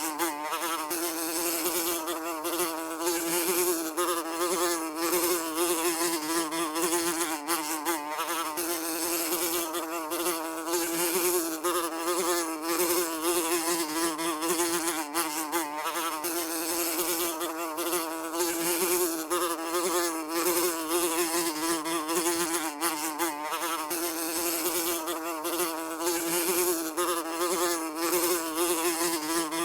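Housefly buzzing in flight, a steady continuous drone whose pitch wavers slightly as it moves.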